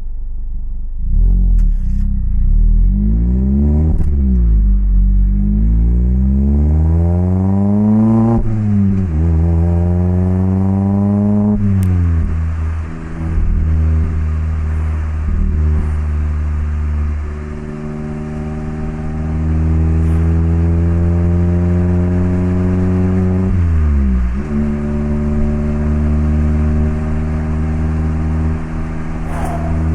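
Mazda MX-5 (ND) 1.5-litre four-cylinder through an HKS Legamax Sports exhaust, accelerating through the gears: the engine note climbs and drops back at three upshifts. It then cruises at steady revs, with a brief dip and pick-up about three-quarters of the way through.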